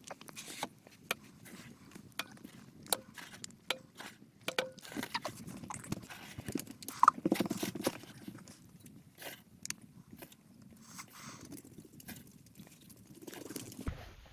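A series of irregular light knocks and clicks, a few with a brief ringing tone, over a low rumble, with the loudest knock about seven seconds in.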